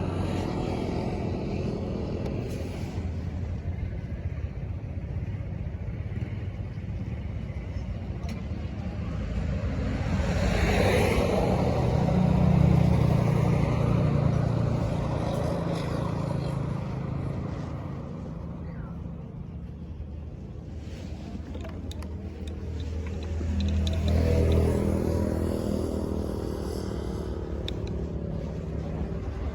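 Motor vehicle engines running with a low rumble, swelling louder twice, about a third of the way in and again near the end.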